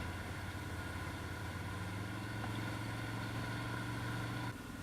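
ATV engine running steadily at a low, even speed; its sound drops abruptly near the end.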